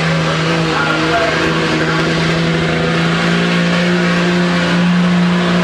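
Diesel semi truck engine running loud at high, steady revs under load, pulling a sled in a truck pull.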